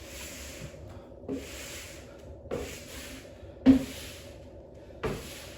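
Rhythmic swishing and rubbing of clothing as the arms sweep through arm raises, about five strokes roughly a second apart. Most strokes begin with a soft thump, the loudest near the middle.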